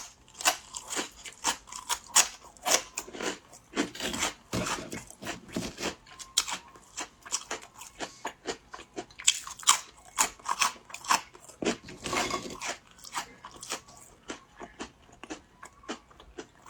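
Close-up biting and chewing of hard, crisp fried rice crackers (guoba), a rapid irregular run of loud crunches, a few a second.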